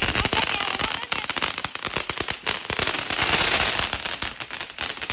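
Consumer firework going off: dense, rapid crackling of many small pops over a steady hiss.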